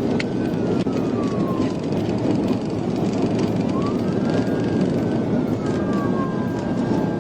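Police cruiser siren wailing in slow rising and falling sweeps over the heavy road and engine noise of the patrol car driving at high speed in pursuit.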